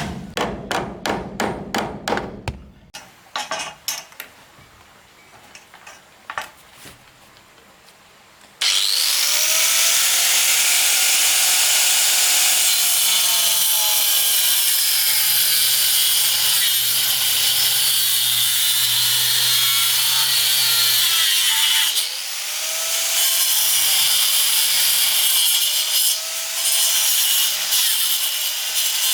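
A few seconds of rapid knocks on wood, then a few scattered knocks. About eight and a half seconds in, a power saw starts cutting through wood. It runs loud and steady, its pitch dipping and rising under load, and briefly eases off about twenty-two seconds in.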